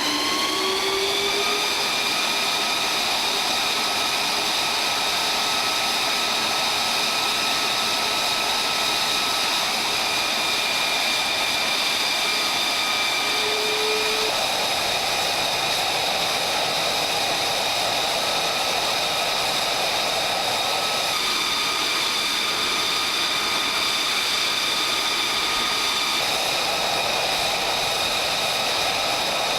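F-35B jet engine (Pratt & Whitney F135 turbofan) running at high thrust: a loud, steady rushing roar with a high whine that climbs slightly in the first second or two. An added lower rushing layer comes and goes, about 14 and again about 26 seconds in.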